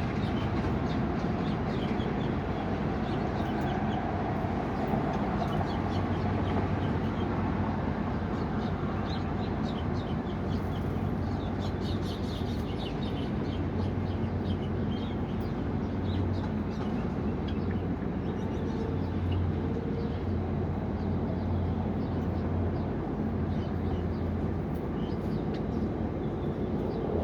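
Small birds chirping, with many short high chirps thickest in the middle stretch, over a steady low rumble.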